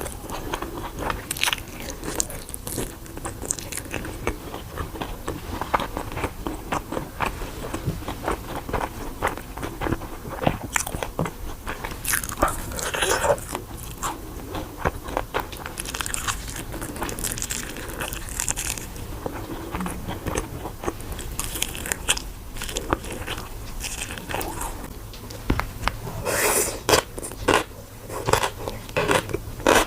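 A person biting and chewing crunchy food: many irregular crisp crunches, with louder bursts of crunching about halfway through and near the end.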